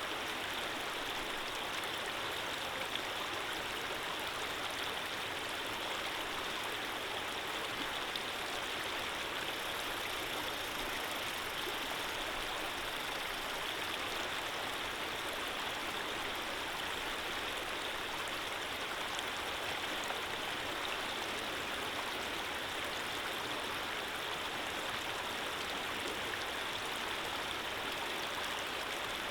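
Running water flowing in a steady, even rush, with no change or break.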